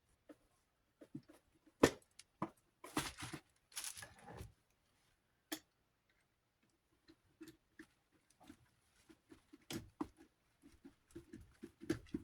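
Small clicks, knocks and scrapes of tools and metal fan parts being handled while working on the desk fan's oscillation mechanism. A sharp click about two seconds in is the loudest, then a rustle, then a run of small quick taps that grows busier near the end.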